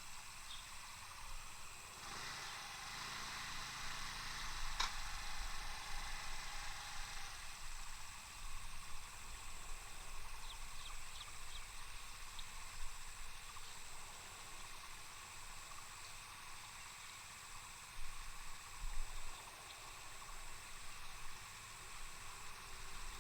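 Outdoor nature ambience with a steady, high-pitched insect drone that pulses at regular intervals over a soft hiss. A rustling swell runs from about two to five seconds in and ends in a sharp click, and a few faint chirps follow later.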